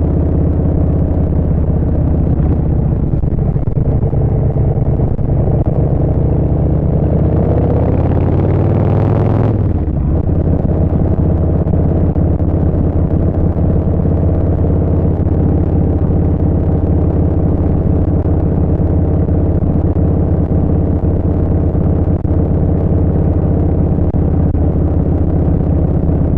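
Harley-Davidson Street Bob 114's Milwaukee-Eight 114 V-twin running through a Vance & Hines Short Shots full exhaust while riding. Revs climb for a couple of seconds, fall abruptly about ten seconds in, then the engine runs steadily at lower revs.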